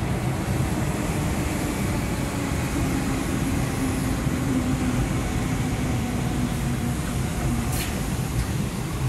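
Hanshin 8000-series electric train running past the platform: a steady rumble of wheels on rails with a low whine that drops slightly in pitch and fades out near the end. A brief sharp click comes just after it.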